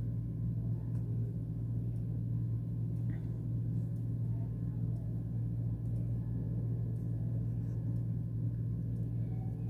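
Steady low mechanical or electrical hum with a faint higher whine, unchanging throughout.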